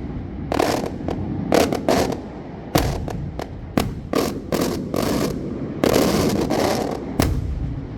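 Fireworks going off in quick, irregular succession: more than a dozen sharp bangs, with a couple of longer crackling stretches, the last loud bang shortly before the end.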